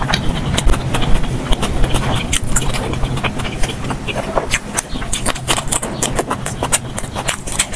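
Eating sounds sped up to double speed: a dense run of short, sharp clicks from chewing and mouth smacking over a steady low rumble.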